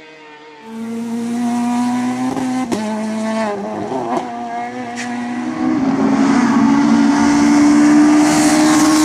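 Rally car engine at high revs coming in loud under a second in, its note held steady and then climbing and getting louder from about halfway as the car approaches, with a few sharp cracks along the way.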